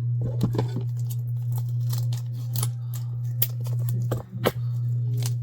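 Light clicks and taps of small hand-work with a mold and feathers, a dozen or so spread irregularly through, over a steady low hum.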